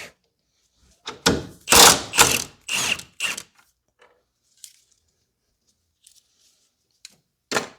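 Ratchet wrench clicking in a few short runs as a bolt is loosened, followed by faint small ticks and one sharp click near the end.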